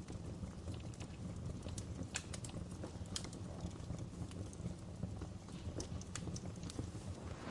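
Fireplace fire crackling: irregular sharp pops and snaps, a couple of them louder, over a steady low rumble.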